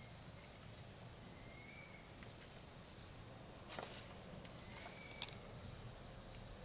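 Faint forest ambience: a bird giving short, high chirping calls about once a second, over a low steady rumble, with a brief rustle or crackle about four seconds in.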